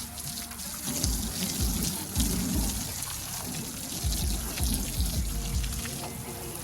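Running, splashing water from the truck washing, with music with a heavy bass beat playing over it.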